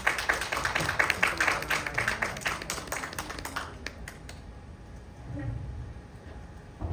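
A small audience applauding, a scatter of hand claps that dies away after about four seconds.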